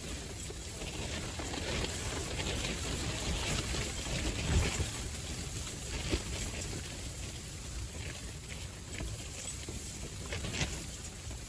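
Strong gusty wind rumbling on the microphone, with a steady hiss and scattered light ticks; one gust swells louder about four and a half seconds in.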